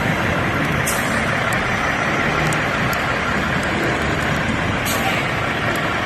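Trucks running and pulling away: a loud, steady engine and traffic noise, with two brief high hisses, one about a second in and one near five seconds.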